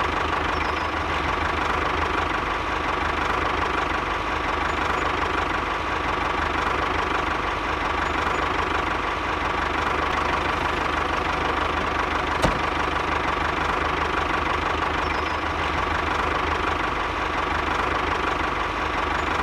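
Small motor of a miniature DIY tractor model running steadily with a fast, even clatter, with one sharp click about two-thirds of the way through.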